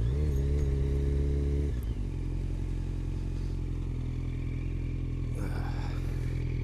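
Yamaha FZ8 motorcycle's inline-four engine revs up briefly at the start, holds for under two seconds, then drops back and settles to a steady idle.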